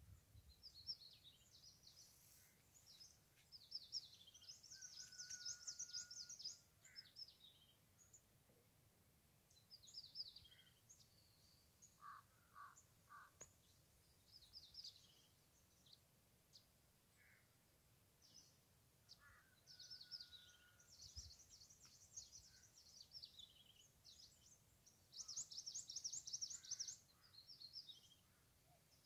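Faint songbirds chirping and trilling in several bursts of rapid high notes, with a few lower calls, among them two drawn-out whistles and a run of three short notes about midway.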